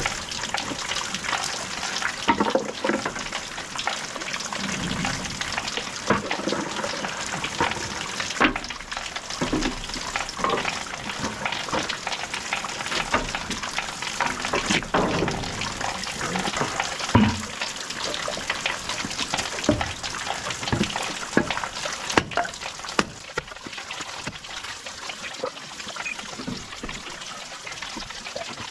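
Heavy rain falling steadily, with scattered knocks and clatters of broken wooden pallet slats being laid into the firebox of an outdoor wood furnace.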